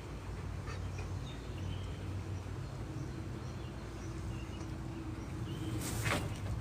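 Quiet outdoor ambience: a steady low hum with scattered faint, short high chirps like distant birds, and a brief hiss about six seconds in.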